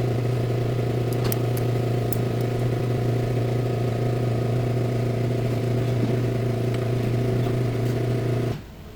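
Chevrolet Blazer engine running steadily at idle with a strong low hum, cutting off suddenly near the end.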